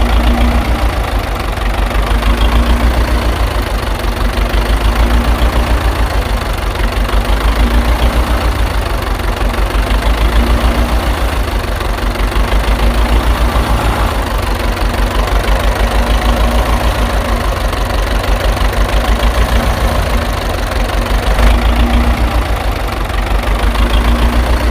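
A tractor engine running steadily at idle, with a fast, low chugging beat.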